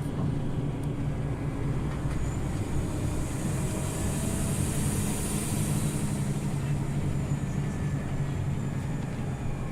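Scania OmniLink city bus under way, heard from inside the passenger cabin: a steady low engine drone with road noise. A high hiss swells and fades in the middle.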